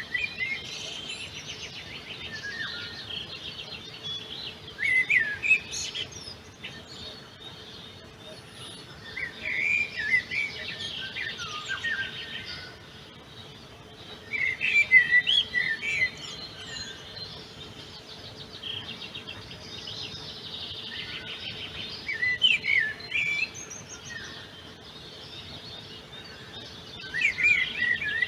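Wild songbirds singing. One bird gives loud, varied song phrases every few seconds, over a continuous background of fainter chirps and trills from other birds.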